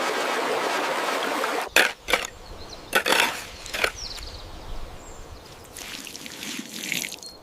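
Steady running water that cuts off suddenly about two seconds in, followed by a few sharp knocks or clicks.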